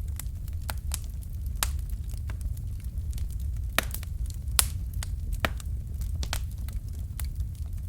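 Wood fire crackling, with irregular sharp pops over a steady low rumble; a few louder pops come about one and a half, four and four and a half seconds in.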